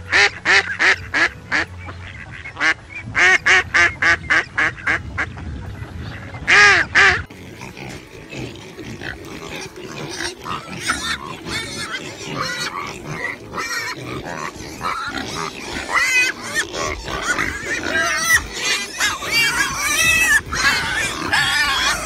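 A goose gives quick runs of honking calls, a few per second, ending in one longer double honk about seven seconds in. It gives way to a herd of pigs grunting and squealing over one another, busier and louder toward the end.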